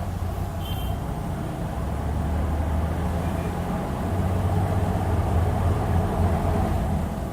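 Hyundai Aerocity 540 city bus engine running, a steady low drone that grows louder about two seconds in and again about four seconds in as the bus pulls.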